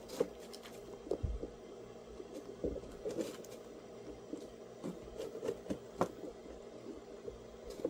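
Faint, scattered light clicks and knocks of a camera being handled and adjusted, over a low steady room hum.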